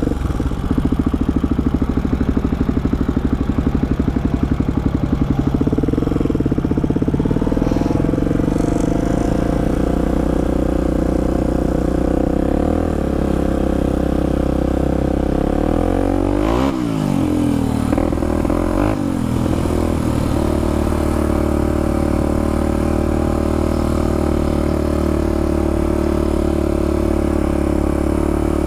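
Polaris Predator ATV's single-cylinder four-stroke engine running steadily along a trail. Around the middle the revs drop and pick back up twice.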